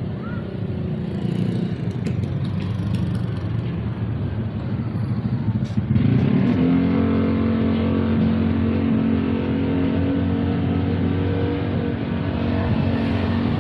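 A motor running with a steady low hum that steps up in pitch and gets louder about six seconds in.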